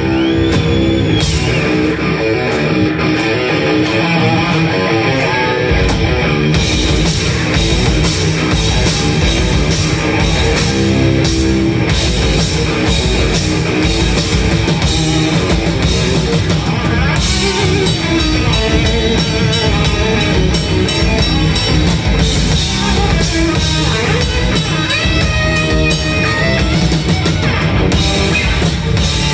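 Live rock band playing, with guitars and a drum kit. The deep low end and cymbals come in at about six seconds, and the full band runs on from there.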